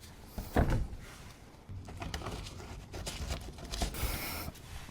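Light handling noises from fitting a car's plastic engine under tray: one short knock about half a second in, then scattered small clicks and a brief rustle.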